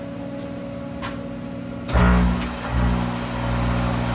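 Monarch 10EE toolroom lathe starting up about two seconds in, then running steadily with a low machine hum. A quieter steady hum is there before it starts.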